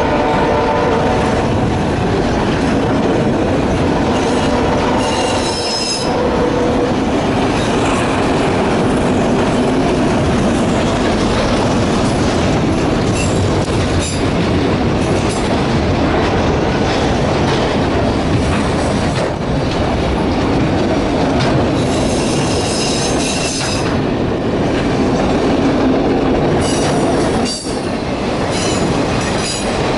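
Freight train of autorack cars rolling past close by, wheels clattering over the rails, with a high wheel squeal that comes and goes several times.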